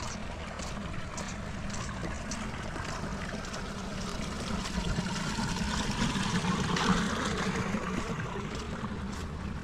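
Steady rain with running water, a steady rush with a low rumble under it and light taps about twice a second. The noise swells louder around seven seconds in, then settles again.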